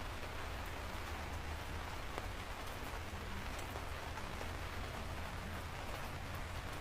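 Steady rain falling on a surface, with scattered small drop ticks over a continuous patter and a low steady rumble underneath.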